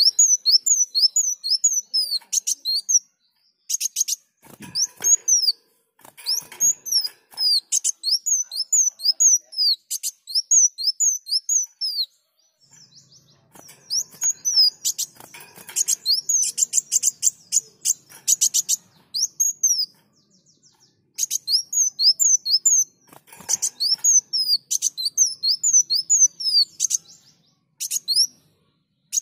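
Kolibri wulung sunbird singing: rapid series of high, sliding chirps and fast ticking notes in phrases of a few seconds, separated by short pauses.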